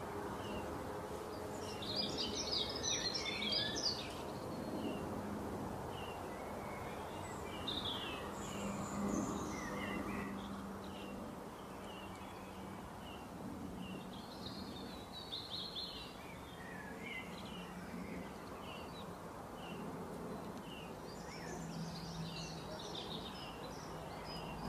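Birds chirping, with bursts of rapid twittering every several seconds, over a steady background hiss.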